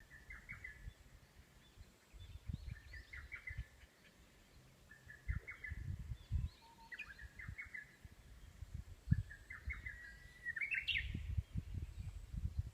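A songbird singing short, quick phrases of clustered notes, repeated about every two seconds, the last phrase ending in a rising flourish. Irregular low rumbling noise runs underneath.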